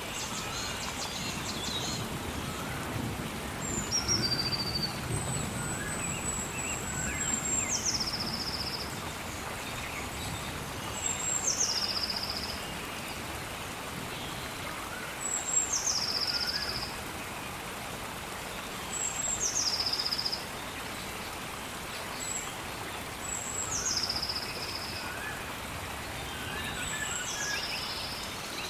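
Steady rain with a bird repeating a high whistled call about every four seconds; each call drops in pitch and ends in a short trill. Other birds chirp faintly in the background.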